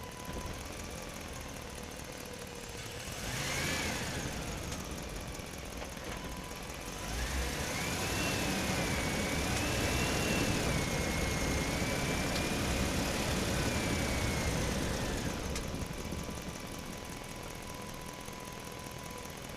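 A small electric motor whines briefly, rising and falling in pitch, then runs again for about eight seconds with its pitch rising and wavering as its speed changes.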